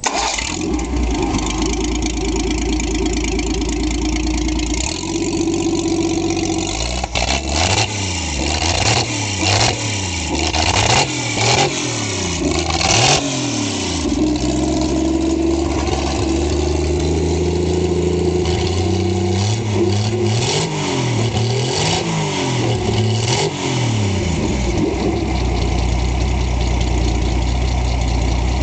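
1959 Edsel 223 cubic-inch inline-six running on an engine run stand through a short open exhaust pipe. It idles steadily, is then revved by hand about ten times, each rev rising and falling, and settles back to a steady idle near the end.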